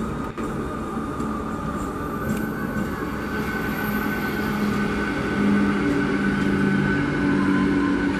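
Electric multiple unit (EMU) local train running past on the rails: a steady rumble of wheels on track with a humming drone, growing a little louder about five seconds in.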